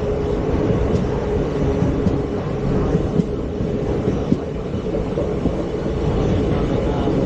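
ICF passenger coach running along the track: a steady rumble and rattle with a steady hum and a few sharp knocks from the wheels.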